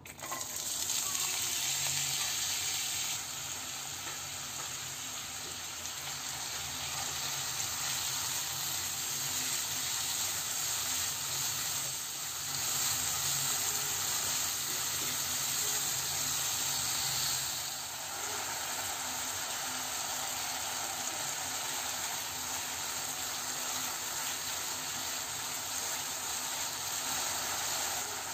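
Diced raw potatoes frying in hot oil in a nonstick wok: a loud, steady sizzle that starts suddenly as they are tipped in and swells at times as a spatula turns them.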